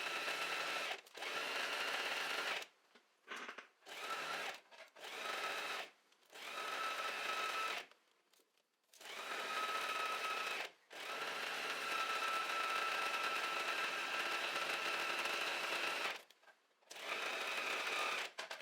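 Domestic sewing machine stitching a seam in jersey fabric, running in about nine stop-and-start bursts of half a second to five seconds with short pauses between, a steady whir with a high hum over it.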